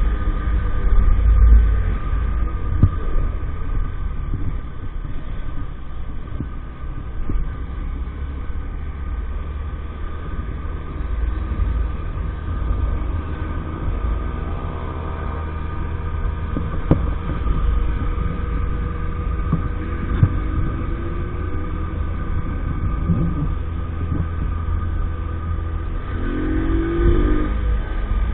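EAYS Pro 50cc motorbike running under way, its engine note rising with the throttle a few times, over a constant low rumble.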